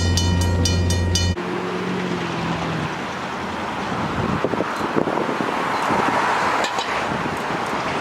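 Train horn sounding, then cutting off suddenly about a second and a half in. It is followed by a steady rushing noise with a few faint clicks.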